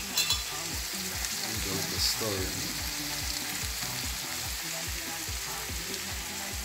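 Onion, green pepper and mushrooms sizzling as they fry in oil in a pan, a steady hiss with two sharp clicks just after the start.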